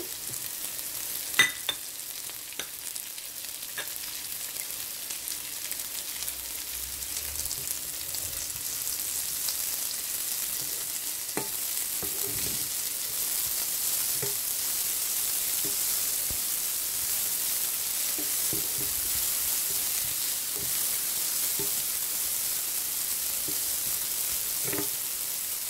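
Chopped onions, dried red chillies and fresh coriander leaves sizzling in hot oil in a frying pan, stirred with a wooden spatula: a steady frying hiss that grows louder over the first ten seconds or so, with a sharp knock of the spatula on the pan about a second and a half in and scattered scrapes and knocks later.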